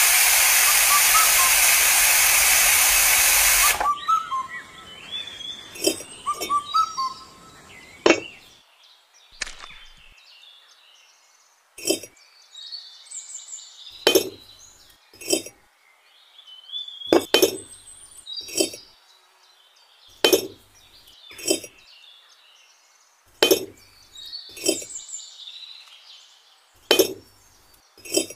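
A loud hiss that cuts off suddenly about four seconds in, followed by sharp, ringing clinks of hard objects, often two at a time, every second or two, with faint high chirps between them.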